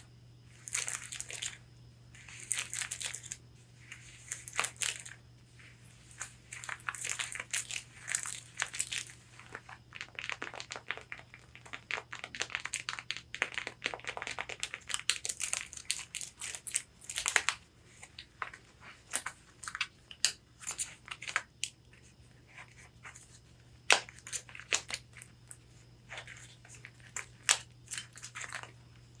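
Long fingernails scratching and tapping on a corset's fabric: irregular runs of rasping scratches mixed with sharp nail taps.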